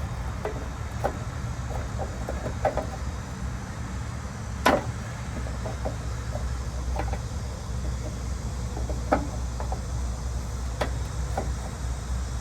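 Steady low rumble with scattered light clicks and knocks. The loudest knock comes a little under five seconds in, and two more sharp clicks come near the end.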